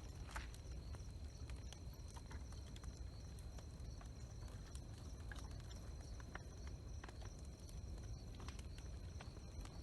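Large wood bonfire burning, with scattered sharp crackles and pops over a steady low rumble. A faint steady high-pitched whine runs underneath.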